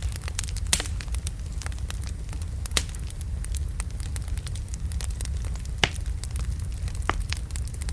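Wood logs burning in a fireplace: a steady low rumble of flame with frequent sharp crackles and pops, a few louder pops standing out.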